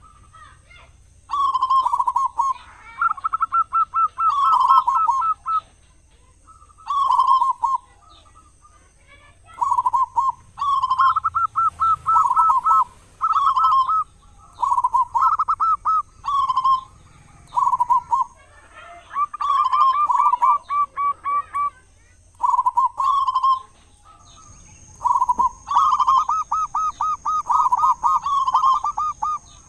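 Zebra dove (perkutut) cooing: repeated phrases of rapid, stuttering notes, each lasting a second or two, with short pauses between them.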